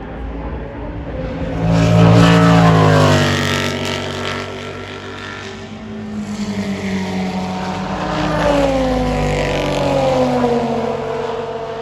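Race cars passing at speed, their engine note dropping in pitch as each goes by: one loud pass about two seconds in, then another from about eight seconds on.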